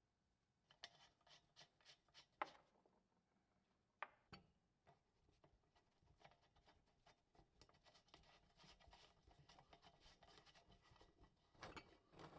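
Faint clicks, taps and light scraping of small parts being handled on a workbench, with a few sharper knocks and a run of scratchy rubbing in the middle.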